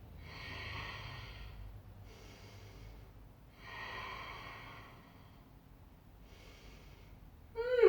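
A woman breathing audibly and steadily while holding a forearm plank on a stability ball. There are about four breaths: two longer, louder ones alternating with shorter, fainter ones.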